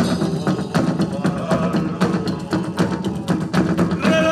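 Live band playing a fast instrumental passage, the drums hitting in a quick, steady rhythm over held guitar or bass notes. A singing voice comes back in near the end.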